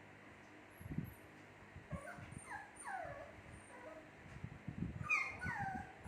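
Shih Tzu puppies whimpering: a run of about four short high whines falling in pitch a couple of seconds in, then two more near the end. A few soft knocks come in between, the sharpest about a second in.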